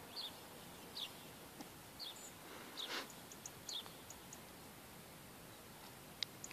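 Faint short high bird chirps, each falling in pitch, about once a second over a steady background hiss, with a brief rustle about three seconds in.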